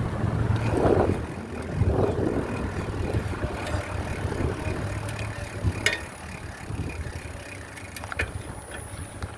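Riding a bicycle: wind buffeting the microphone over a low tyre rumble, with a couple of sharp clicks in the second half.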